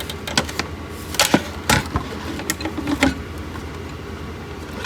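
Scattered clicks and knocks of a water heater power vent blower assembly being handled and turned over, its housing tapping against hands and bench, about half a dozen in all.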